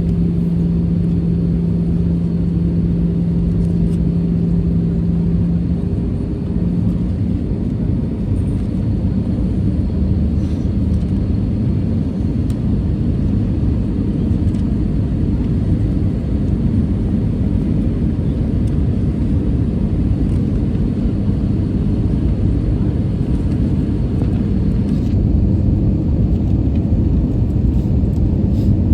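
Steady rumble of engine and airflow noise inside the cabin of an Airbus A320-214 with CFM56 engines. A steady hum in the rumble fades out about six seconds in.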